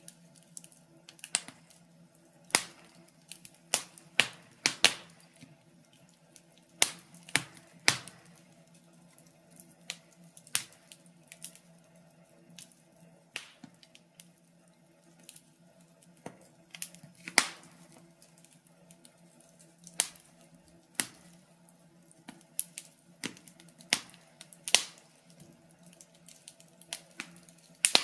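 Fireplace fire crackling: irregular sharp pops and snaps at uneven spacing, about one or two a second, over a faint steady low hum.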